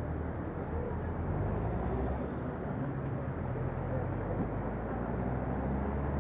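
A vehicle engine running steadily with a low hum, over a constant noisy hiss.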